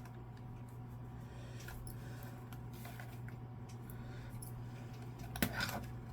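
Faint scattered clicks and scrapes of plastic as an Xbox One controller's shell is pried apart, with a sharper cluster of clicks about five and a half seconds in. A low steady hum runs underneath.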